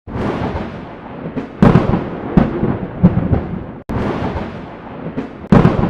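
Looped intro track of heavy booming hits over a continuous rumble. The pattern cuts off just before 4 seconds in and starts over the same way.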